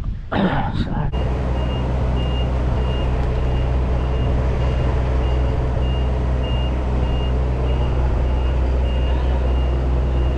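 A vehicle's reversing alarm beeping steadily about twice a second over its engine running, as it backs up at the quarry; it starts about a second in.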